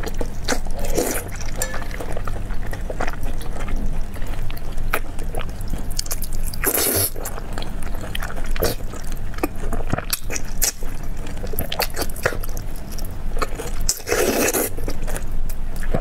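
Close-up eating sounds of fatty pork jiguanyou (ruffled pork fat) in chili oil: wet chewing and biting with many small wet mouth clicks. There are louder slurping sounds about a second in, at about seven seconds and near the end.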